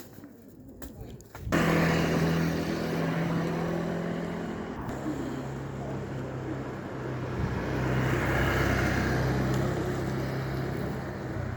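Motor vehicle engine noise close by, starting suddenly about a second and a half in and running steadily, its pitch shifting slightly, with a second swell in loudness a little past the middle as traffic goes by.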